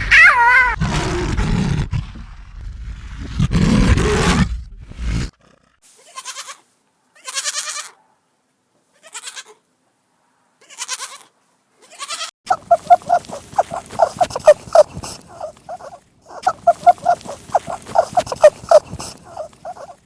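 A series of different animal calls: a loud, low, rough call for the first five seconds, then several short separate calls with silent gaps, then two runs of rapid pulsed calls in the second half.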